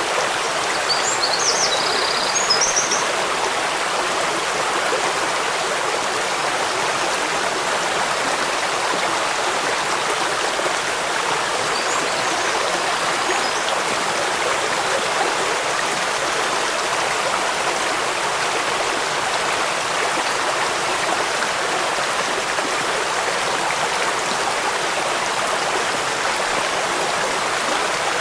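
Steady rushing water of a stream or waterfall, an even unbroken wash of sound. A bird chirps a few short high notes about a second in, and again faintly near the middle.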